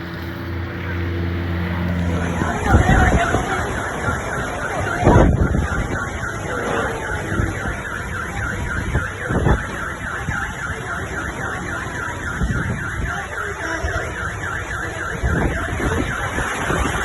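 Car alarm sounding with a rapid repeating electronic pattern, over storm wind that buffets the microphone in heavy gusts. A low engine-like hum stops about two seconds in.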